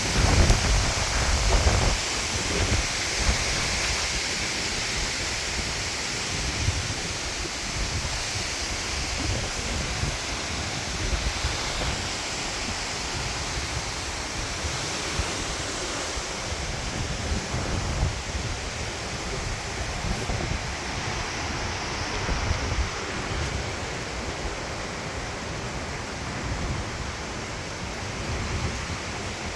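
Strong gusty storm wind rushing, buffeting the microphone with low rumbles, heaviest in the first couple of seconds.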